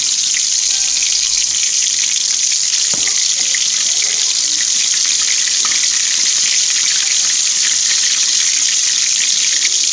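Battered mussel fritters frying in hot oil in a wok: a steady sizzle. A single light knock about three seconds in.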